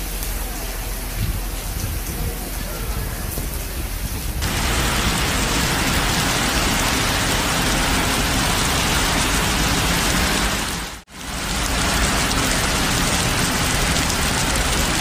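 Torrential rain pouring onto pavement: a steady, dense hiss of a heavy downpour. It gets louder about four and a half seconds in and drops out for an instant about eleven seconds in.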